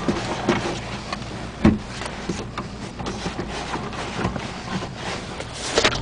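1995 Subaru Impreza's flat-four engine running, a low steady hum heard from inside the cabin, with scattered clicks and a single sharp knock about two seconds in from the camera being handled.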